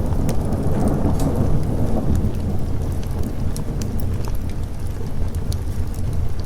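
Steady rain with a low thunder rumble that swells over the first couple of seconds and then eases off, and scattered sharp clicks on top.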